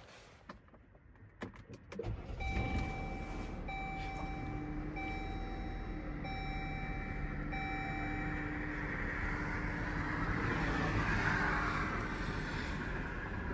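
2023 Chrysler Pacifica minivan's engine starting on a cold start about two seconds in, then idling steadily. An in-car warning chime repeats about six times in the first part of the idle, and a rushing noise swells and eases near the end.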